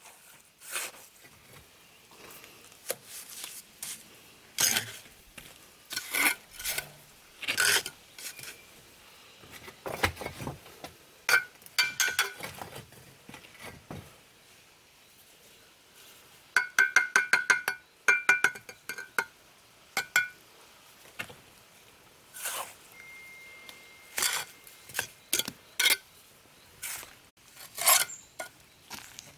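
Scattered metallic clinks, taps and scrapes, with a quick run of ringing metal taps in the second half.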